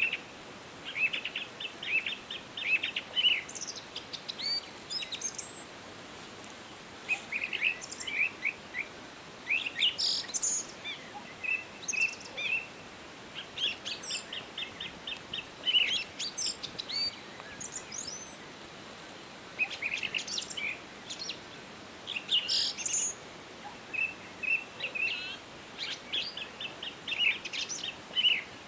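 Songbirds singing in a forest, short runs of quick chirps and higher whistled notes in overlapping phrases every second or two, over a faint steady hiss.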